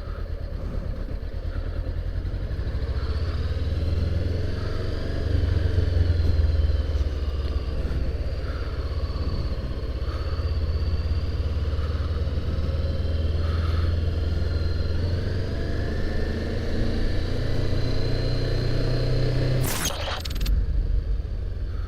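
Honda CBR500R's parallel-twin engine running as the motorcycle rides off, its pitch rising and falling with speed and gear changes. A brief burst of noise comes near the end.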